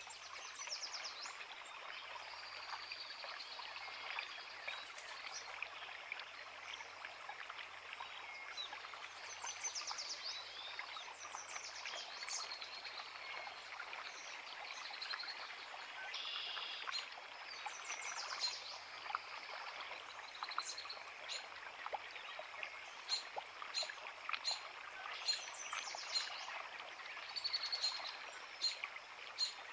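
A woodland creek running steadily over rocks, with several songbirds singing and chirping in short repeated phrases over the water.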